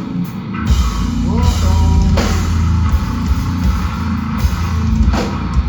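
Live rock band playing loudly: distorted guitar, bass and a drum kit, heavy and driving.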